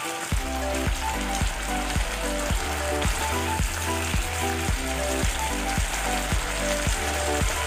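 Chicken pieces sizzling in hot oil in a frying pan as they are turned with a spatula. Background music with a bass line and a steady beat plays along, its bass coming in just after the start.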